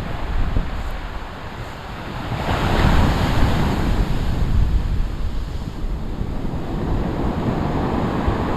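Big storm waves breaking on the shore, one crashing about two and a half seconds in, with strong wind buffeting the microphone.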